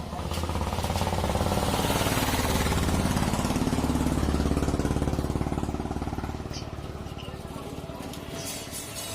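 Kirloskar diesel engine running with a rapid, even firing beat. It swells up to full speed within the first second or so, holds there for several seconds, then slows back down.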